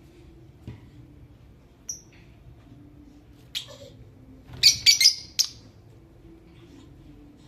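Blue Fischer's lovebirds calling: a couple of short, high chirps, then a loud burst of several high-pitched squawking calls about halfway through.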